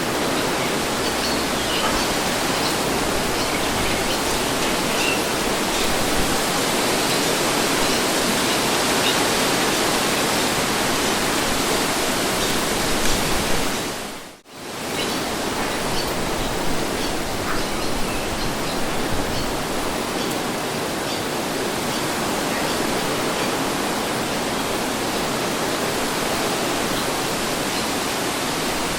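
Steady wind noise, an even rushing hiss with no gusts standing out. About halfway through it dips briefly almost to silence and comes straight back, like the join of a looped track.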